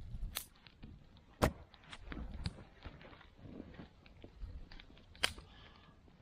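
Irregular knocks and clicks over low rustling, as of things being handled and set down. Two sharp knocks stand out, about one and a half seconds in and near the end.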